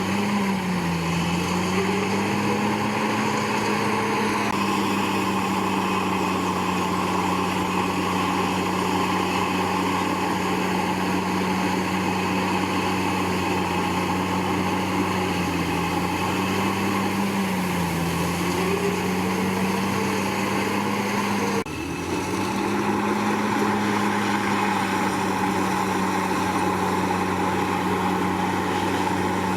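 Komatsu D61PX crawler bulldozer's diesel engine running steadily under load. Its pitch sags briefly and recovers a few times, and there is a short break in the sound about three-quarters of the way through.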